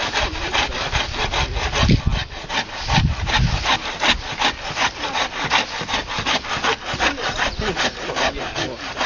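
Hand saw cutting through a tree trunk in quick, even back-and-forth strokes, about four a second. A couple of low thumps come about two and three seconds in.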